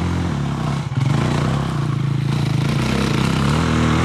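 Four-stroke enduro dirt bike engine running steadily, with a brief clatter about a second in and a little louder from then on.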